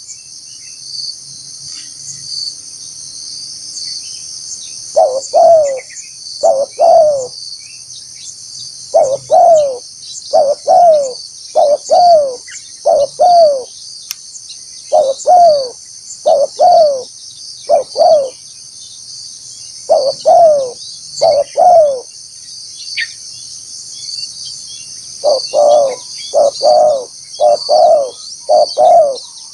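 A spotted dove coos in repeated phrases of several short, slightly falling notes, with pauses of one to three seconds between the phrases; this is the call of a trained decoy dove used to draw in wild doves. A steady, high, pulsing insect buzz runs underneath.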